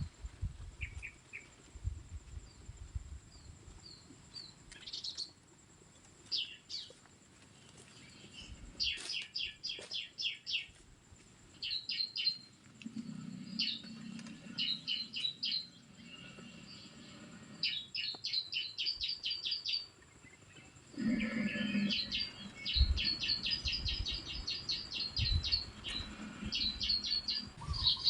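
Bar-winged prinia (ciblek) calls: repeated bursts of rapid, high chirping notes, each burst a second or two long, coming thicker in the second half.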